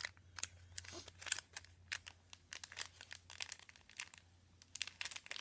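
Packaging crinkling in the hands in irregular short crackles as craft ribbons and trims are handled and unwrapped, over a faint steady low hum.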